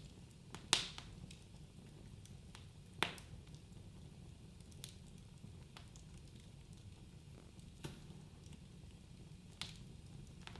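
Wood fire burning in a fireplace: a soft steady rumble of flames with scattered sharp crackles and pops, the loudest about a second in and about three seconds in.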